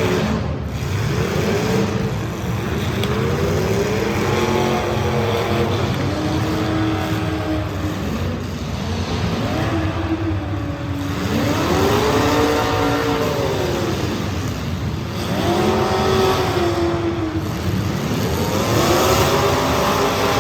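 Street stock race car engines running hard, their pitch rising and falling over and over every few seconds as the cars accelerate and back off around the track.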